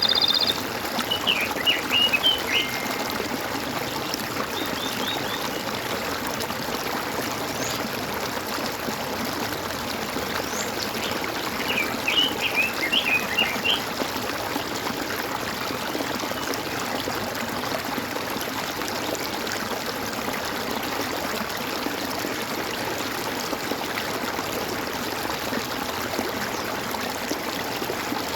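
A small stream trickling and gurgling steadily, with a songbird singing short bursts of chirps twice: about a second in and again about twelve seconds in.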